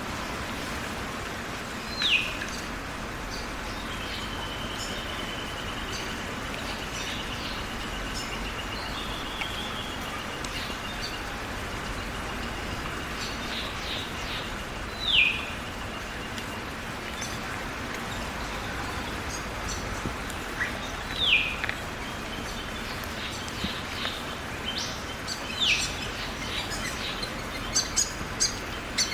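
Birds calling over a steady hiss of rain. Four loud, short calls sweep downward in pitch, spaced several seconds apart, and a long thin trill runs through the first half. A burst of quick high chirps comes near the end.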